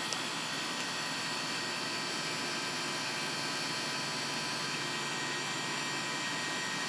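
2001 York central air conditioner outdoor unit running: a steady fan whoosh with several steady high-pitched whine tones over it.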